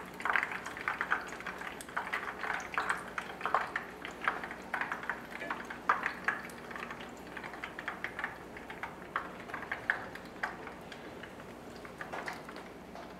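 Battered zucchini blossoms frying in hot olive oil in a pan: a continuous sizzle full of small irregular crackles and pops.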